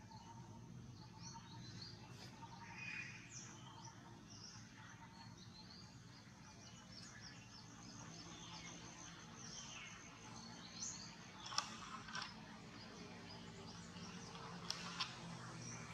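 Faint birdsong: many short, high chirps and twitters throughout, with a few sharp clicks near the end.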